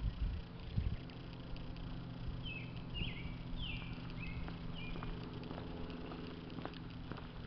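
A bird sings a short run of quick chirps in the middle, over a steady low hum. There are low bumps in the first second and light scattered clicks like footsteps from someone walking.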